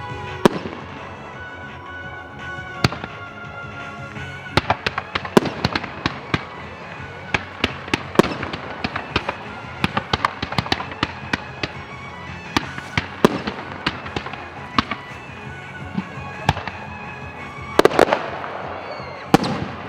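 Aerial fireworks going off in a long irregular barrage of sharp bangs and crackles, densest in bursts about a quarter of the way in and again near the end. Background music plays underneath.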